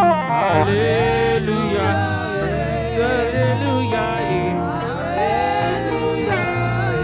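Live gospel music: a lead melody that slides between notes over a stepping bass line.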